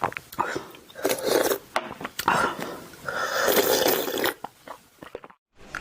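Close-miked crunching and chewing of ice, in several bursts of bites separated by short pauses; it breaks off into silence for a moment near the end.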